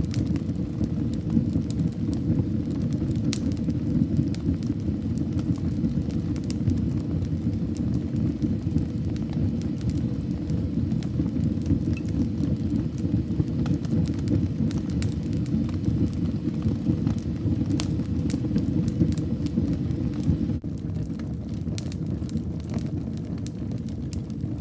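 Wood fire burning in a fireplace: a steady low rumble of flames with scattered sharp crackles and pops. The rumble drops a little about twenty seconds in.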